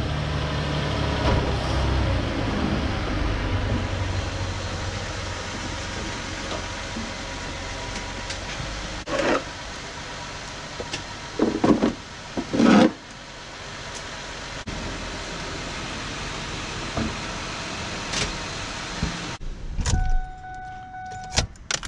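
2006 Ford Fusion's 3.0L V6 running for the first several seconds as the car is backed down off plastic drive-on ramps. Then a few hollow knocks as the ramps are handled, and near the end a held electronic warning tone from the car's dash.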